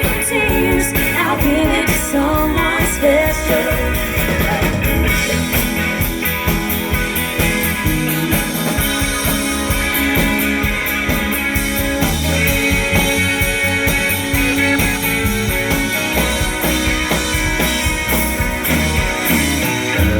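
Live band music over a PA: a rock-country song with electric guitar and a steady beat, a singer's voice over the first few seconds.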